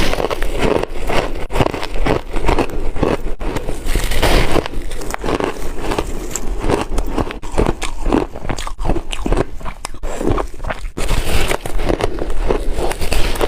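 Chunky ice being bitten, cracking and crunching between the teeth close to the microphone, many sharp crunches in quick succession.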